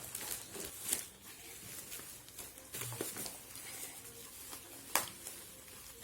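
A parcel being cut open and unpacked: scissors and packaging rustling, with a few sharp clicks or snips.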